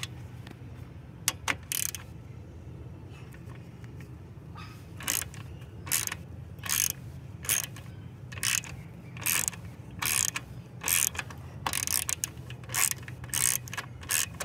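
Hand ratchet with a 10 mm socket clicking in short bursts on its back-strokes as a bolt is loosened: two bursts near the start, then a regular run of bursts a little more than once a second from about five seconds in.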